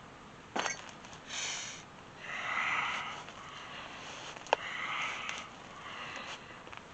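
Breathing through the nose during cat-cow: a few soft, drawn-out breaths in and out, each lasting about a second. There is a single sharp click about halfway through.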